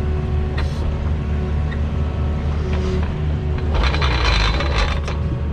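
Takeuchi excavator's diesel engine running steadily while it turns an auger bit down a deep hole, with scattered knocks and a harsher noisy stretch lasting about a second, near the end.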